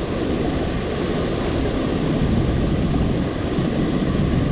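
Loud, steady rush of water pouring out of a dam's release gates, an even roar with no breaks.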